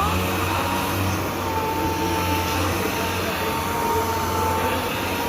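Orbital sanding machine with a 400-grit pad working a car's painted body panel: it spins up at the start into a steady whine that drifts slightly in pitch over a low hum.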